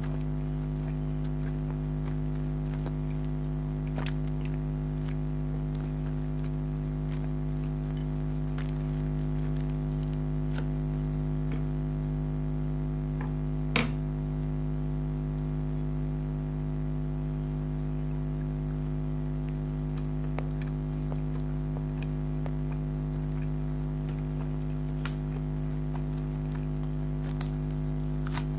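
Quiet chewing and small eating clicks, with one sharper click about halfway through, over a steady low hum.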